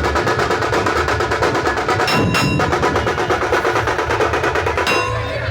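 Fast, continuous drumming with a rapid, even beat, with a couple of bright ringing metallic strikes; the drumming thins out about five seconds in.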